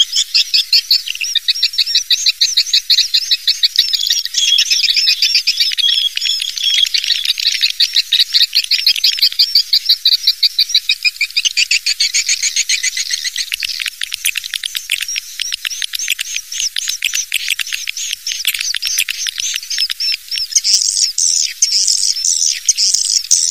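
Recorded swiftlet calls played as a lure sound: several birds' dense, rapid, high-pitched twittering trills overlapping without a break. The pattern changes about 12 seconds in and again near the end, to higher, louder trills. This kind of call track is used to draw swiftlets into a nesting house.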